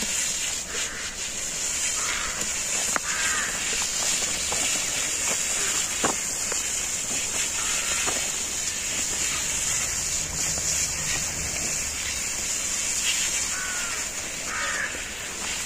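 Birds chirping in short calls over a steady high-pitched hiss, with a few light clicks.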